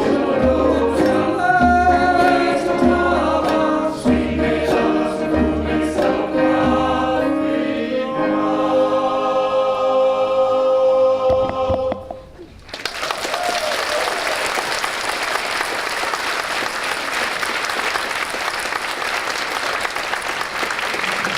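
Choir singing with a low beat about once a second, ending on a held chord about twelve seconds in; then the audience applauds.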